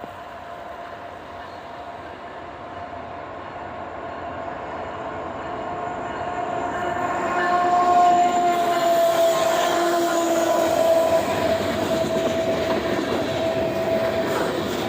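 A train approaching and passing, growing louder over about eight seconds, with a long held horn chord whose pitch drops slightly as it goes by, over the rumble and clatter of the wheels.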